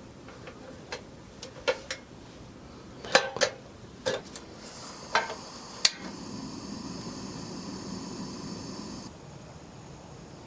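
Dishes and cutlery clinking and knocking, a series of sharp separate strikes. This is followed by a steady hiss for about four seconds that stops abruptly.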